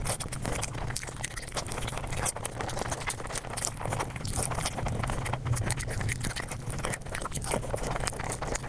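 Mukbang eating sounds played at five times speed: a dense, rapid run of clicky chewing and crunching noises.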